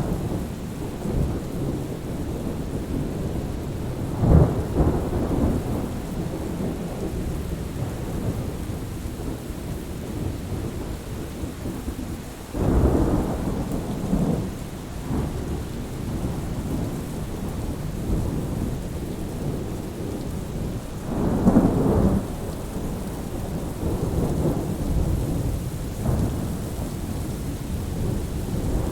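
Thunderstorm: steady rain with low, rolling thunder swelling up several times, the loudest peals about four seconds in, about thirteen seconds in and about twenty-two seconds in.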